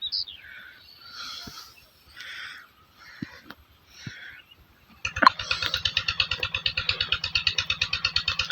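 Faint bird chirps, then about five seconds in an engine starts with a sharp burst and keeps running with a steady, rapid throbbing beat.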